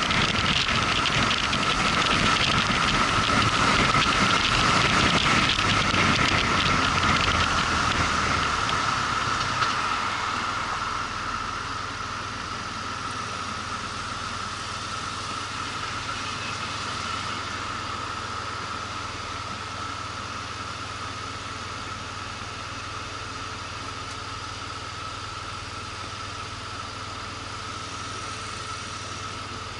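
Motorcycle riding with wind and road noise, which dies away about ten seconds in as the bike comes to a stop; its engine then idles steadily.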